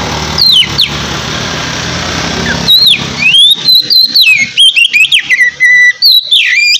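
Oriental magpie-robin (kacer) singing loud whistled phrases of sweeping, gliding notes mixed with sharp clicking notes. For the first few seconds a loud steady hiss and hum lies under the song.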